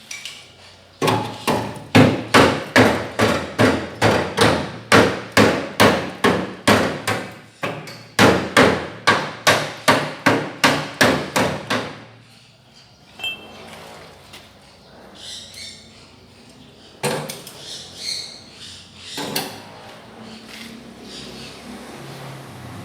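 Steady hammer blows, about two a second, with a short pause about eight seconds in, stopping about twelve seconds in; a few quieter knocks follow.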